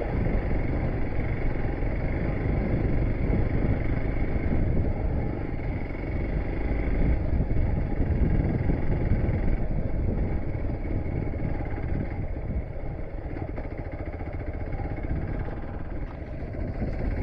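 Hero XPulse motorcycle's single-cylinder engine running steadily while riding a rough off-road track, mixed with a continuous low rumble of wind and road noise.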